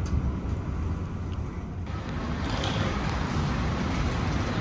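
Train running noise heard from inside the carriage as it moves along a station platform: a steady low rumble, with a brighter rushing hiss joining about two seconds in.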